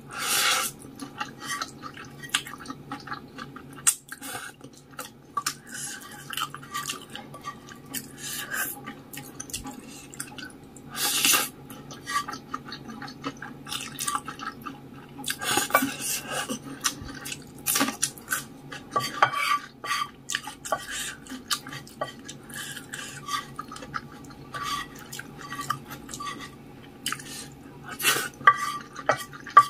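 Close-miked eating of saucy noodles and rice: wet chewing and mouth smacks in an irregular run of short clicks, with cutlery clinking on the dish and a few louder bursts.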